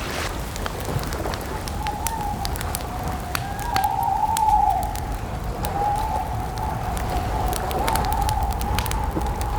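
Campfire crackling with frequent sharp pops, over a low rumble and a steady wavering whistle that swells about halfway through.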